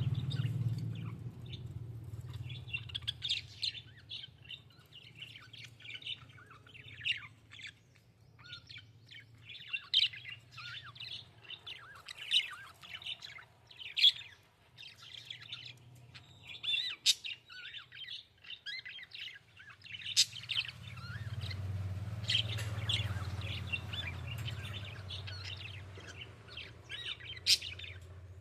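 A flock of budgerigars chirping and twittering in quick, irregular bursts, with a low hum underneath that fades early and returns about three-quarters of the way through.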